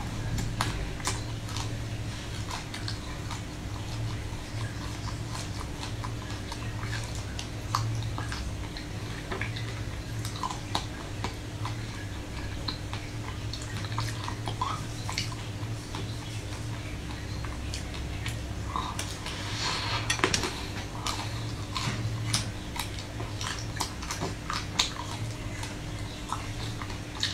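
Close-up mouth sounds of eating an ice cream bar: bites and chewing of its crumbly coated layers, with many small sharp crackles, clicks and wet smacks, over a steady low hum.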